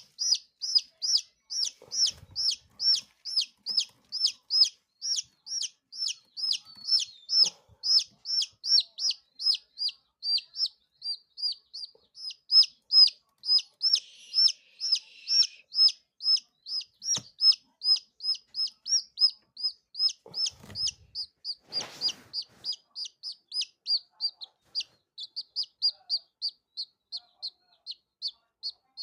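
A chick peeping loudly and without pause, about three high, falling peeps a second, a sign of a stressed chick. There is a short knock about two-thirds of the way through.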